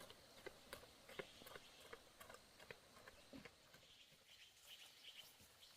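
Near silence with faint, scattered clicks and ticks at irregular intervals.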